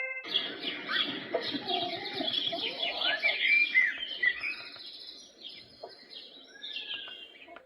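Recorded birdsong, many quick chirps and some sliding whistles, played as one of the Gladle white noise machine's natural soothing sounds through its small speaker. It grows fainter over the last few seconds.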